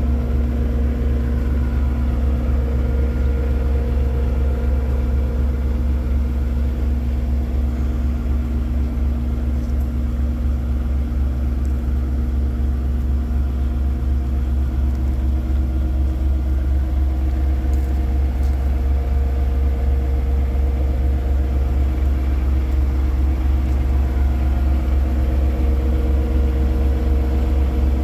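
Paccar MX-13 diesel engine of a Peterbilt 389 truck tractor idling steadily with a low rumble.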